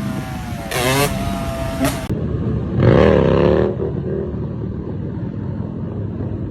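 Motorcycle engines revving up and down, then, after an abrupt cut, another engine revs briefly about three seconds in and settles into a steady low rumble.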